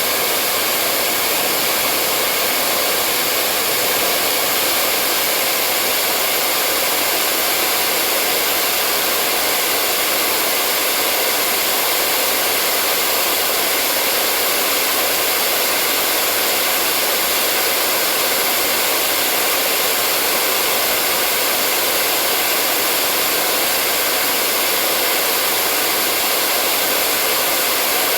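Hair dryer blowing steadily, a constant hiss-like rush of air without change.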